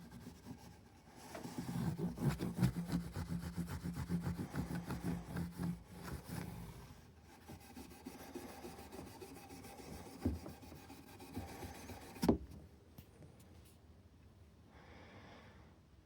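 Rapid back-and-forth rubbing strokes on the frets of a Martin D-16 acoustic guitar during fret levelling and dressing, about five strokes a second, then quieter handling sounds and one sharp knock.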